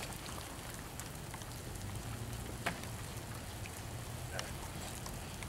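Steady, fairly quiet hiss of light rain falling, with a couple of faint sharp clicks, one past halfway and one near the end.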